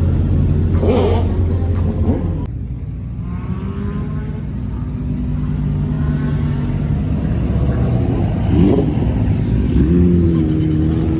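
Car engines running, with an engine revving up and back down a few times, near the start and again near the end. The sound changes abruptly about two and a half seconds in.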